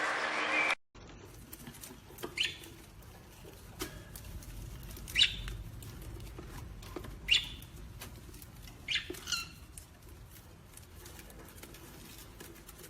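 Parrot giving four short, sharp calls a few seconds apart, each dropping quickly in pitch, with scattered faint clicks between them.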